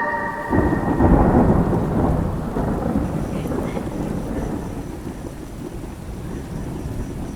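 A roll of thunder breaks about half a second in and slowly rumbles away, over steady rain.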